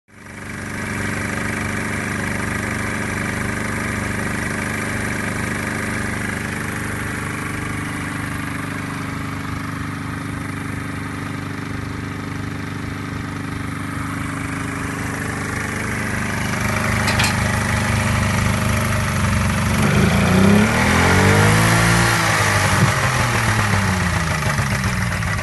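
First-generation Suzuki Cervo SS20's two-stroke engine idling steadily. About three-quarters of the way through, the throttle is blipped a few times, the revs rising and falling, with a sharp click shortly before.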